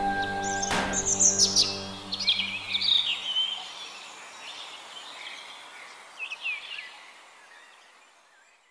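Birds chirping and singing in short, quick calls that fade away toward the end. A held musical chord dies out in the first three seconds, and a sharp knock sounds under it about a second in.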